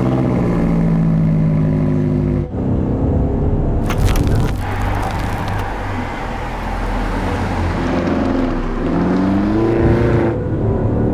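BMW M5 Competition's twin-turbo V8 pulling hard through the gears: a steady pull, a sudden break for a gear change about two and a half seconds in, then revs climbing again near the end before another shift.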